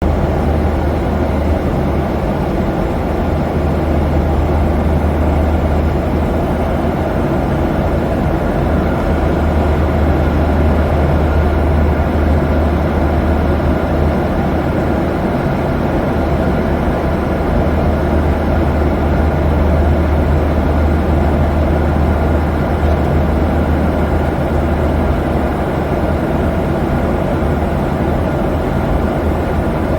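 Steady low vehicle drone, strongest in the deep bass, with an even rushing noise above it. It starts suddenly out of silence.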